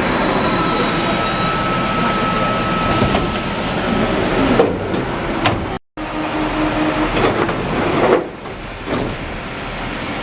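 Santiago Metro NS-74 rubber-tyred train running, a steady rolling noise with a faint steady whine. The sound drops out briefly about six seconds in and comes back with a different texture.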